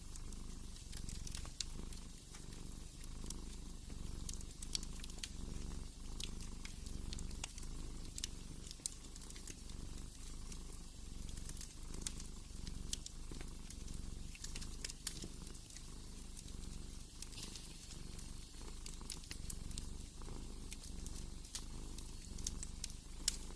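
Domestic cat purring steadily, swelling and easing about once a second with its breathing, over a wood fire crackling with scattered sharp pops.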